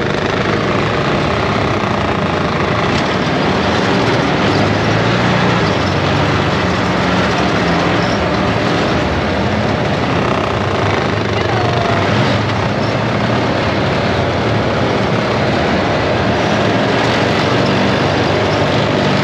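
ATV engine running steadily while riding along a trail, under a loud, even rushing noise.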